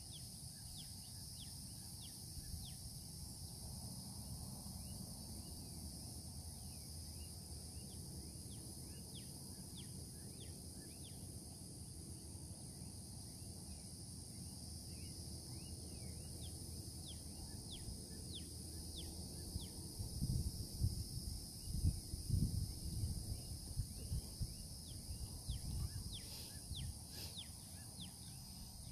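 Steady high-pitched chorus of insects, with many short falling chirps scattered through it. Irregular low rumbles come in about two-thirds of the way through.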